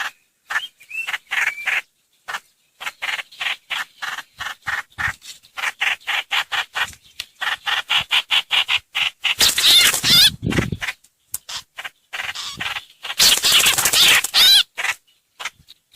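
Recorded call of the bird known in Vietnam as trao trảo (hoành hoạch), played as a lure: short, sharp notes repeated several times a second, with two louder, harsh chattering stretches in the second half.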